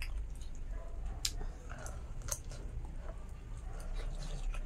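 Eating sounds: mouthfuls of rice and pork being chewed, with a few sharp lip-smacking clicks, over a low steady hum.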